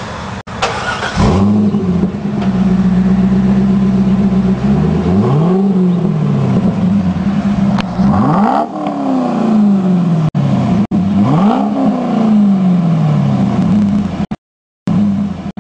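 A car engine starts about a second in and settles into a steady idle. It is then revved three times, each rev rising and falling back to idle.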